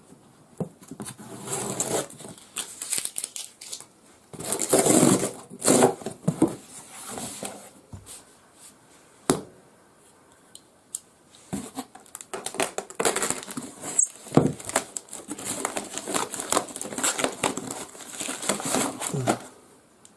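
Plastic and cardboard packaging crinkling and rustling as it is handled and opened, in irregular bursts. A pause of a few seconds falls in the middle, broken by a couple of sharp clicks.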